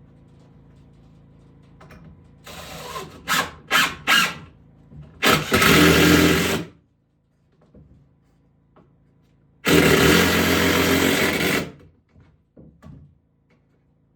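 A power tool run in several short trigger bursts, then in two longer runs of about one and a half and two seconds.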